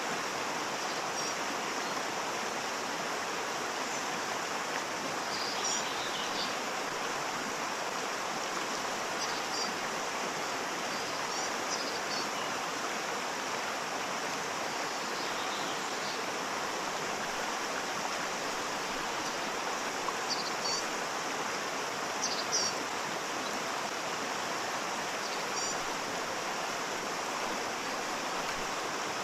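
Waterfall: a steady rush of falling water at an even level, with a few brief faint high-pitched sounds here and there.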